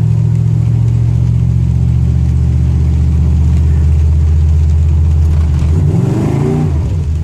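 Truck engine pulling through a 3000 rpm stall torque converter in second gear, its pitch climbing steadily. About six seconds in it revs up sharply, then drops back.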